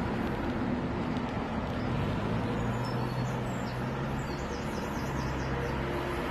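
Diesel train engine running steadily with a low hum that strengthens about two seconds in, while small birds chirp in quick series midway through.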